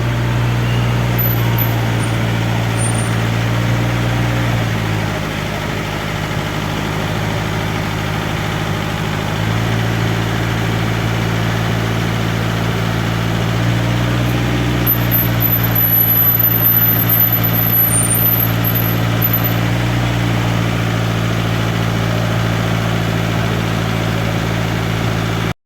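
Hino H07D inline-six diesel bus engine running steadily at an even speed, its pitch holding, with a faint high whine for a few seconds past the middle.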